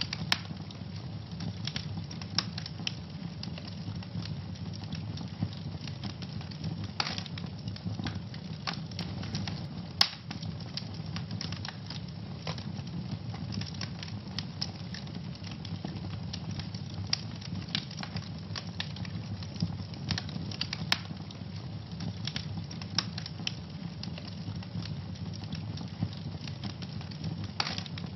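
Wood fire burning in a fireplace, crackling and popping irregularly over a steady low rush of flames, with one louder pop about ten seconds in.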